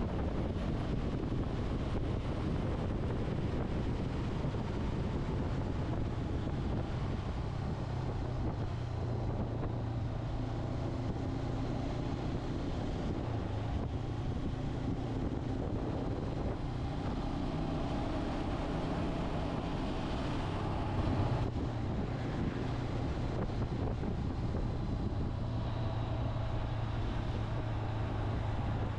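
Motorcycle engine running on the road, its low note shifting a little with the throttle, with wind noise on the microphone.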